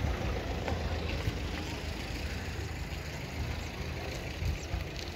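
Motor vehicle engine idling: a steady low rumble.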